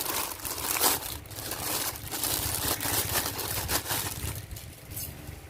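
Plastic and cardboard packaging crinkling and rustling as a toy car is unboxed by hand, a dense crackle of small clicks that eases off near the end.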